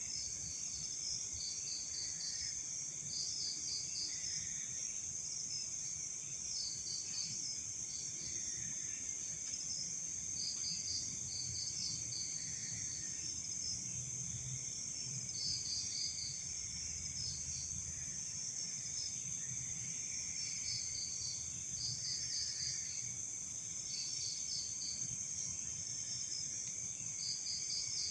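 Night insect chorus: crickets keep up a steady high trill, with groups of short, quick pulsed chirps every second or two. A second, even higher steady buzz cuts off suddenly near the end.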